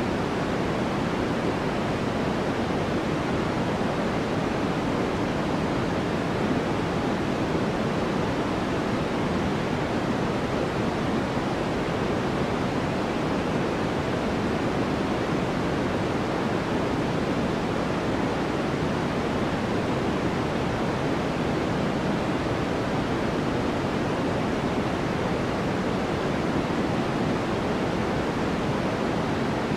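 Steady white-noise background track: an even, unchanging rushing hiss, heavier in the low and middle range than at the top.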